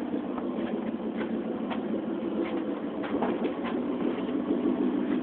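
Mustang V8 engine idling steadily, a low, even burble through an aftermarket exhaust.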